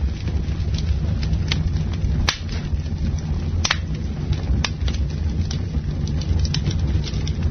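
Campfire burning, with a steady low rumble and irregular crackling: many small snaps and a few sharp pops.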